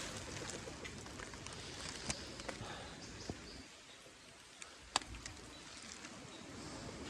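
Faint outdoor ambience on a forest trail, with a few scattered sharp clicks and taps, the loudest about five seconds in.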